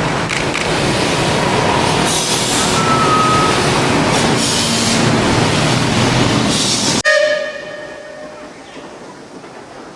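Steam locomotive passing close by with a loud, steady rush of steam and exhaust. The sound cuts off abruptly about seven seconds in, leaving a short fading ring over a much quieter background.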